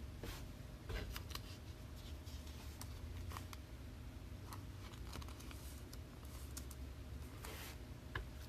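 Trading cards being handled at a table: faint, scattered clicks and a brief rustle, over a low steady hum.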